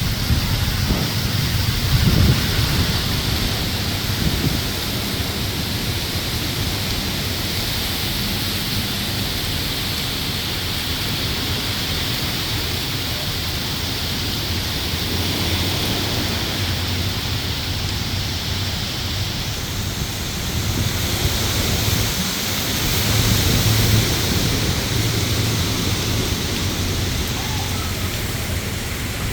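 Thunderstorm: heavy rain falls steadily while thunder rumbles, swelling about two seconds in and again about three-quarters of the way through.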